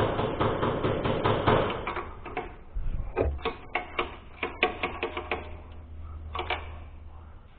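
Rapid clicking and rattling of hand tools on metal for about two seconds, then a string of separate sharp clicks and knocks, with a faint low hum under the second half.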